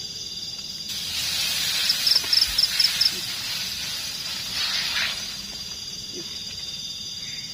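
Insects trilling steadily in one high pitch. A hissing rush starts about a second in and dies away after about four seconds, with a short run of quick chirps at its height.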